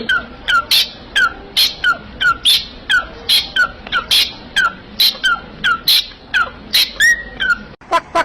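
A parrot squawking in a fast repeated series of short calls, about three a second, each one dropping in pitch. A longer held call comes near the end.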